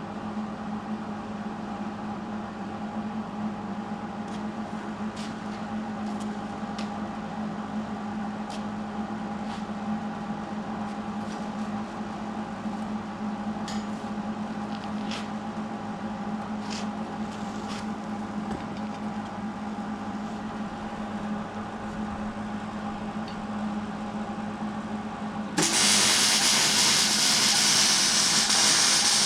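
A steady mechanical hum with a few faint ticks, then near the end a loud hiss of compressed air that starts suddenly and runs for about four seconds.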